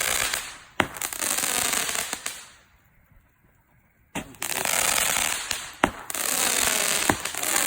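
Fireworks going off: a dense crackling hiss with several sharp bangs, breaking off for about a second and a half near the middle before starting again abruptly.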